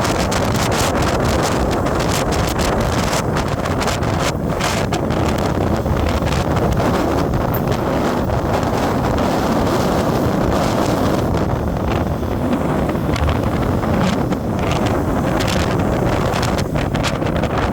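Steady wind buffeting the microphone on a moving vehicle, with engine and road noise underneath; frequent short crackles come through from gusts on the mic.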